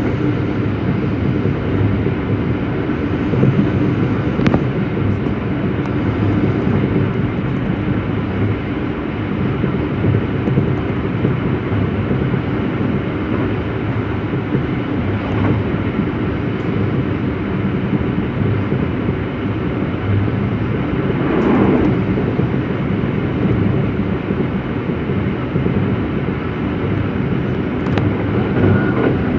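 Running noise heard inside a JR West local train car: a steady rumble of the wheels on the rails and the running gear, with a brief swell about two-thirds of the way through.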